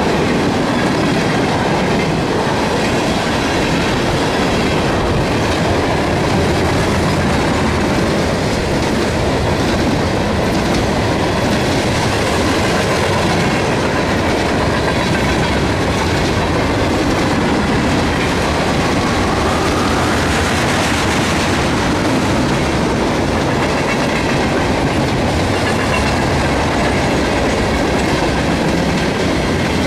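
Railroad cars of a passing freight train rolling by close on the mainline, a steady loud noise of wheels on rail with no let-up.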